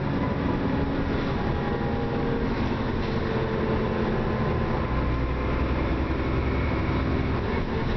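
Dennis Trident double-decker bus on the move, heard from inside: a steady drone of engine, transmission and road noise with several whining tones that shift slightly in pitch. The uploader calls the bus clapped out.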